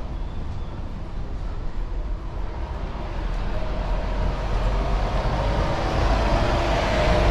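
A motor vehicle drawing nearer on the street, its low engine rumble and a steady whine growing louder through the second half.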